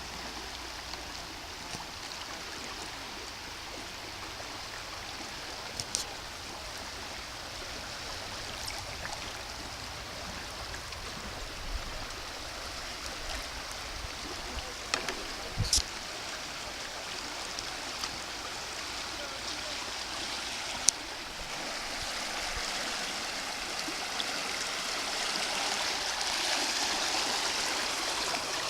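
River water running, a steady rushing that grows louder over the last third, with a few short sharp clicks along the way.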